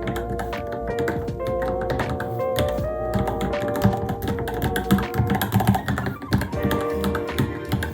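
Rapid typing on a Varmilo Minilo mechanical keyboard, a quick run of key clicks over background music with sustained, wavering tones. The keystrokes come thicker and louder in the second half.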